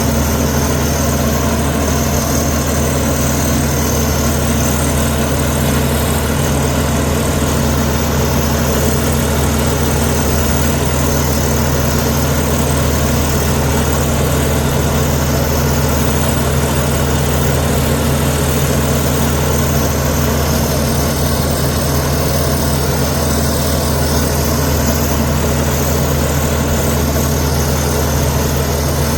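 Heavy earthmoving machine's diesel engine running steadily at an even, unchanging speed, with no revving.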